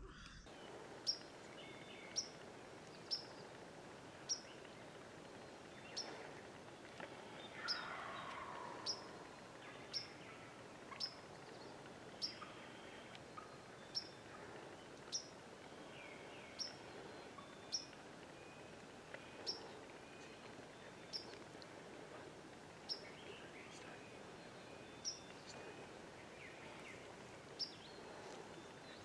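A small bird repeating a short, high chirp about once a second over a quiet outdoor background. About eight seconds in there is a single lower, falling call.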